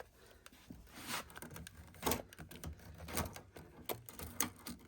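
Irregular light clicks and knocks of tools or small wooden parts being handled, several over a few seconds.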